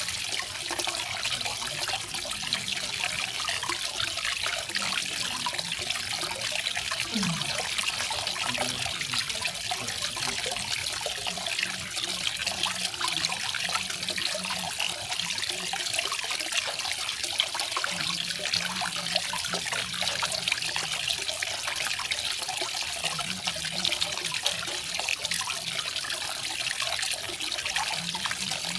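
Garden waterfall: water falling and splashing steadily, an even rushing trickle with fine splatters.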